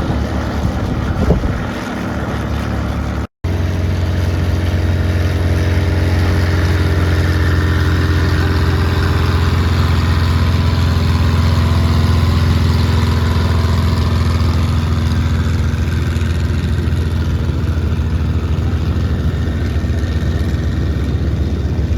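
An engine running steadily, with a brief dropout about three seconds in where the audio cuts.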